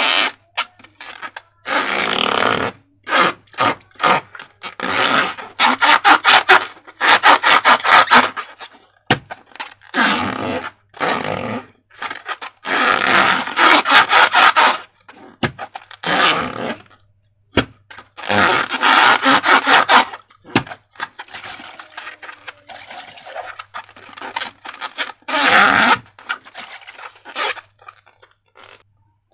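Slime being squished and worked by hand: repeated bursts of many small crackling clicks, each a second or two long, with short pauses between.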